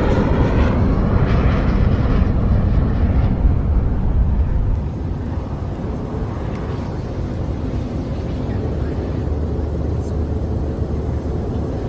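Airliner cabin background noise: a steady low jet-engine rumble. It drops a little in level about five seconds in and then runs on evenly.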